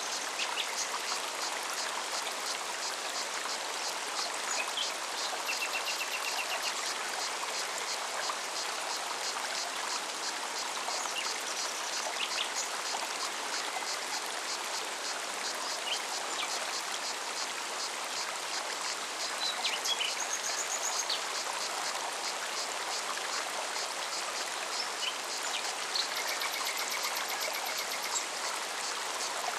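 Forest mountain stream running steadily, with small birds chirping throughout and a short trill about five seconds in and another near the end.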